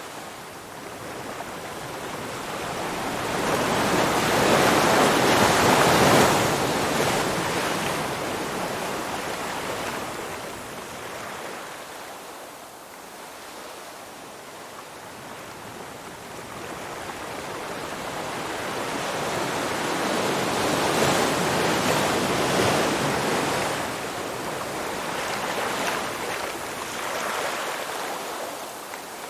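Surf waves washing in and drawing back: a rushing hiss that swells to a peak a few seconds in, fades, swells again in the second half, then ebbs once more near the end.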